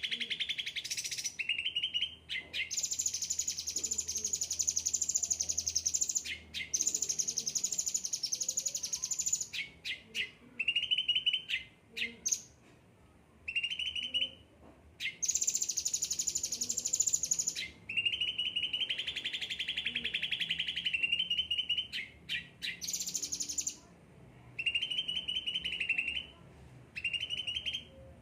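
Leafbird (cucak ranting, 'ocean green' yellow-headed type) singing: long, very fast buzzing trills high in pitch, each lasting a few seconds, alternating with lower, shorter trills and quick sharp chips, with brief pauses between phrases.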